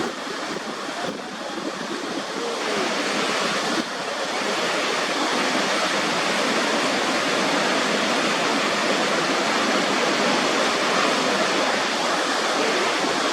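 Waterfall: a steady, dense rush of falling water, which shifts slightly in level and tone about four seconds in.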